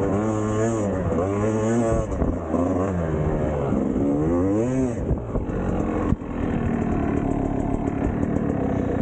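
Two-stroke dirt bike engine revving up and down repeatedly under the throttle, then running at a steadier note from about six seconds in.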